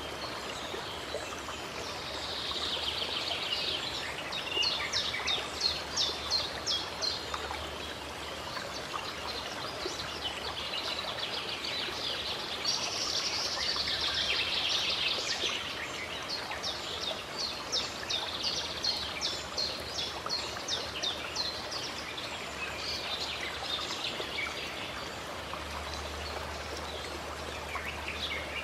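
Steady rushing of a flowing stream, with birds calling over it in runs of short, high chirps repeated about three times a second.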